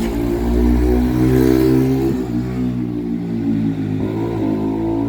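A road vehicle's engine running loudly and accelerating, its pitch shifting up and down a little a couple of times.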